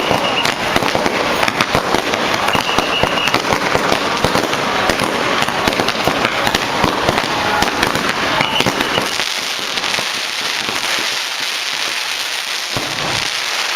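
Firecrackers going off in a continuous rapid crackle of countless small bangs, the deepest part of the sound thinning over the last few seconds.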